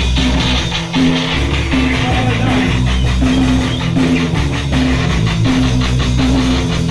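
A punk band playing loud hardcore punk, with distorted electric guitar, bass and drum kit. It keeps a fast, steady beat.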